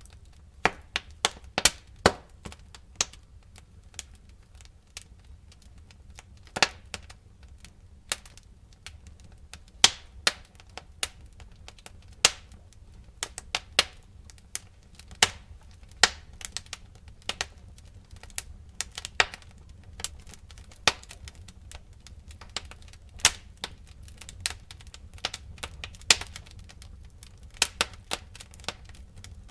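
Wood fire crackling: irregular sharp pops and snaps, several a second at times, over a low steady rumble of burning.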